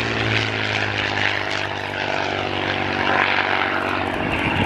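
Supermarine Spitfire PR Mk XI's Rolls-Royce Merlin V12 engine running as the aircraft flies past. The engine note drops slowly in pitch as it passes, with a loud propeller rasp over it.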